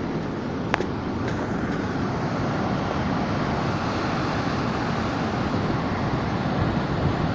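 Waterfall rushing steadily, an even unbroken noise of falling water, with one sharp click near the start.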